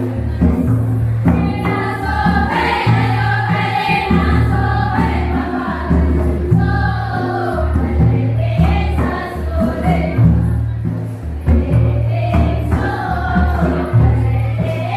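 A Karam festival song: several voices singing together over music with a deep, steady beat.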